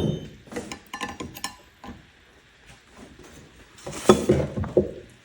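Metal hand tools clinking and tapping against the rear hub and brake rotor of a 125cc ATV, with scattered light clicks at first and a louder cluster of knocks about four seconds in.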